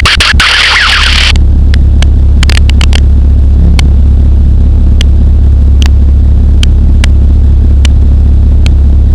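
Pulsar XP microlight's engine droning steadily in flight, a loud low hum. A loud hiss cuts off suddenly about a second in, and short clicks come every second or so.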